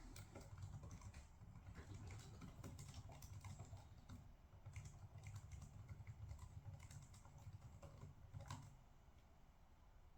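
Faint typing on a computer keyboard, a quick irregular run of key clicks that stops near the end.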